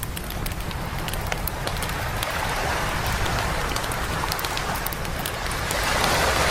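Sea waves washing up onto a beach, the rush swelling twice, with a wood campfire crackling in sharp little pops.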